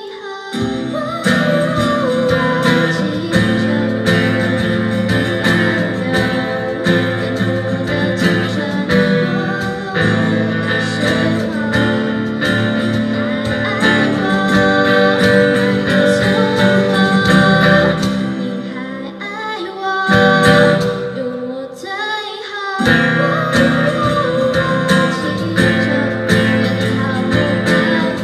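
Live band music led by guitars: strummed guitar under a melodic line, with a break in the bass for a couple of seconds about two-thirds of the way through.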